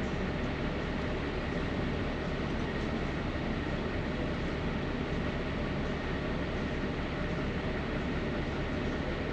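Diesel engine of a rigid truck idling steadily, heard from inside the cab.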